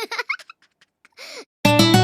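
A few short high-pitched cartoon voice sounds, like a gasp or giggle, and a brief rising-then-falling squeak, then strummed guitar music starts about a second and a half in.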